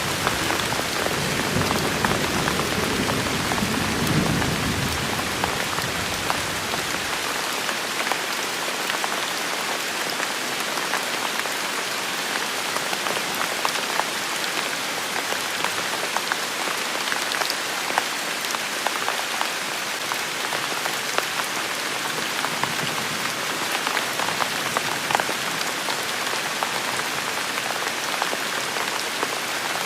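Steady rain falling, with scattered individual drops ticking. A low rumble of thunder dies away over the first several seconds.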